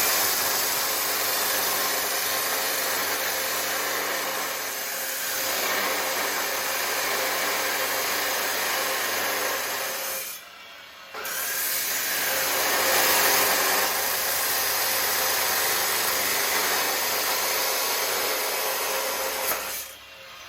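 Power tool grinding or cutting metal on the exhaust being fabricated, a loud steady rasping noise. It stops for under a second about halfway through, starts again, and cuts off just before the end.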